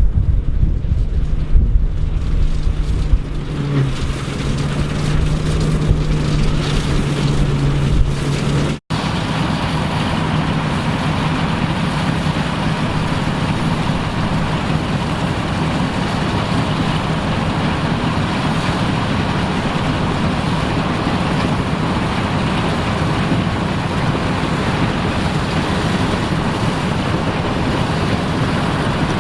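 Vintage farm machinery engine running steadily under low rumble, with wind on the microphone. About nine seconds in the sound cuts abruptly to a steadier, noisier machine drone that continues.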